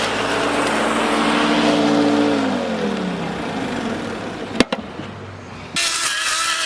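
MacAllister wood chipper motor running, then winding down in pitch after being switched off, with a sharp click about halfway through. Near the end a different motor sound starts abruptly.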